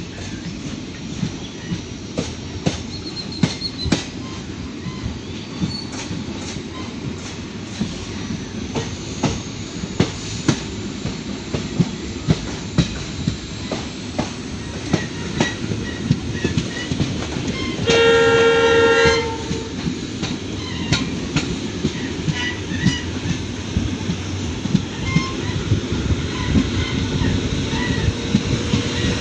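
Passenger express train running along the line, heard from aboard: a steady rumble with the clickety-clack of wheels over rail joints. About two-thirds of the way through, the locomotive's horn sounds once for over a second, the loudest sound here.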